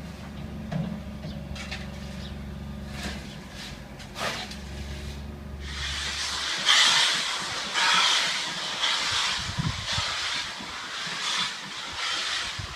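Steam locomotive hissing steam in loud surges about once a second, starting about six seconds in, like a locomotive easing away with its cylinder cocks open. Before that, a steady low hum that stops just as the hissing begins.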